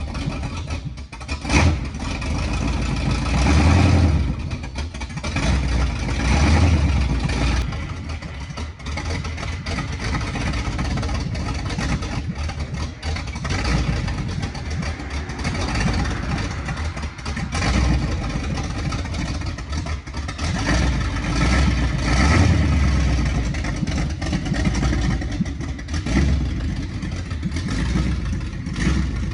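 Pickup truck engines running and revving as trucks drive past one after another, the sound swelling and fading several times.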